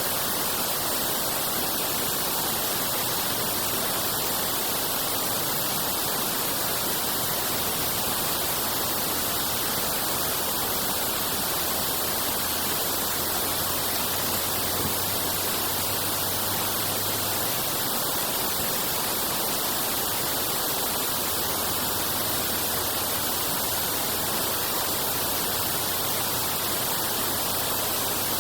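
Steady rush of water pouring through a drain, an even hiss-like roar with no breaks.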